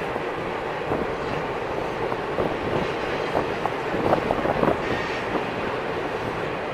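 Freight cars of a long mixed freight train rolling past on the rails: a steady running noise of steel wheels with scattered short clanks.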